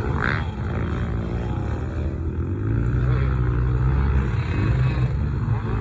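Yamaha PW50 mini dirt bike's small two-stroke engine running steadily, getting louder about halfway through.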